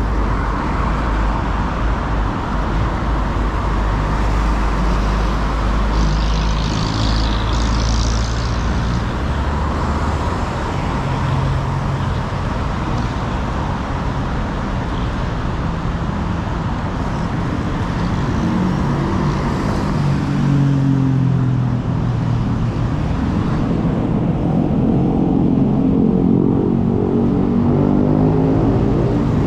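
City road traffic: engines of nearby cars and other vehicles running and passing. Over the last several seconds an engine's pitch rises and falls.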